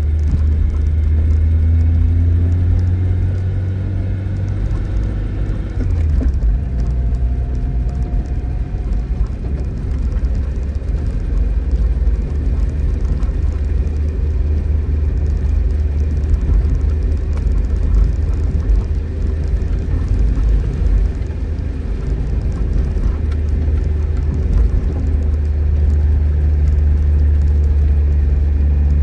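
Tofaş Doğan SLX engine running with a steady low rumble, its pitch shifting about six seconds in, over a fine hiss of rain.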